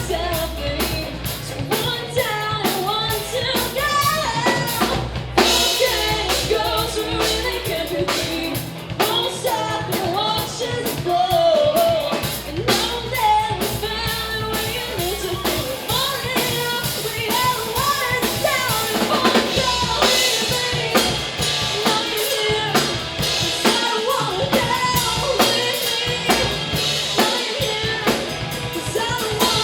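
Live band playing a song: a drum kit with snare and bass drum keeping the beat under a singing voice and other instruments.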